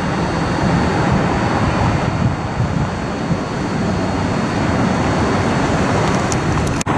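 Jet airliner engine noise, a loud steady rush with a low hum under it, mixed with wind on the microphone. It breaks off for an instant near the end.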